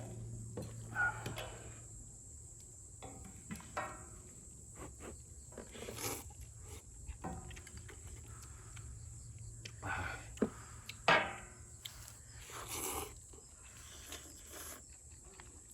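Eating at a cauldron-lid stew over a wood fire: scattered short clicks, knocks and scrapes of utensils, with a few brief slurps. A faint steady high insect trill runs underneath.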